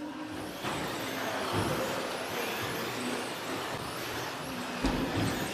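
Electric RC stadium trucks running around a dirt track: a steady mix of motor whine and tyre noise, with a low thump about five seconds in.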